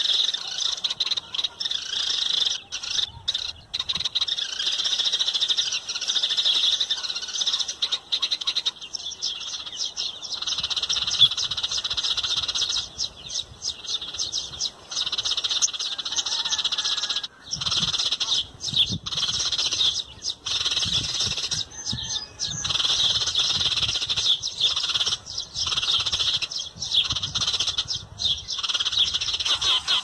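Small birds chirping in a dense, continuous high-pitched chorus, broken by a few sudden brief dropouts.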